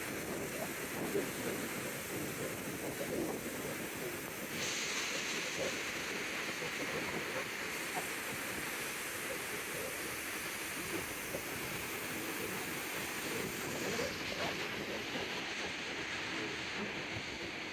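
Steady, loud rush of water near the reservoir dam, with wind buffeting the microphone in low crackles.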